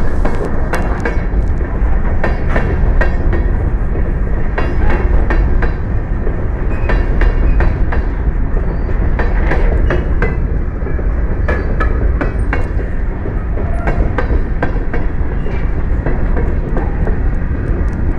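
Freight train of tank cars and covered hopper cars rolling past close by: a loud, steady rumble of steel wheels on rail, broken by frequent irregular clanks and clicks.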